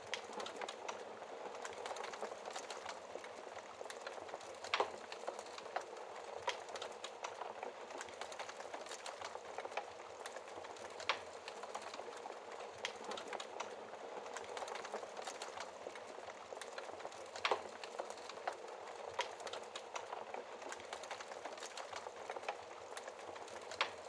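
Wood fire in a fireplace crackling steadily: a constant soft hiss full of small snaps, with a few sharper, louder pops every several seconds.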